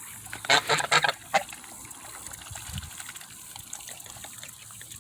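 Young geese and ducks calling: a quick run of short honks about half a second to a second and a half in, then only a faint background hiss.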